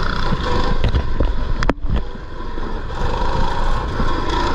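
Mini bike engine running under throttle on a dirt track, with low rumble on the microphone; a few knocks and a brief drop in sound just under two seconds in.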